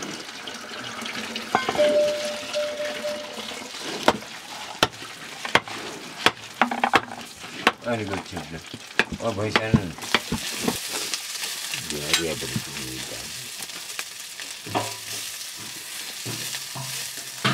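Food sizzling and frying in a wok over a wood fire, stirred with a wooden stick, the frying hiss taking over about halfway through. Sharp knocks and clicks come in the first half.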